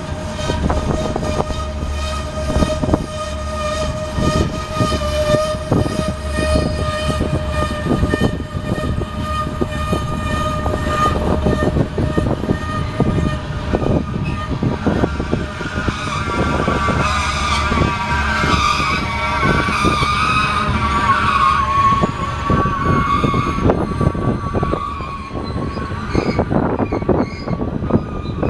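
Freight cars of a Union Pacific grain train rolling past with a steady rumble and a constant clatter of wheels over the rails. Wheel flanges add a wavering high squeal that grows loudest about two-thirds of the way through.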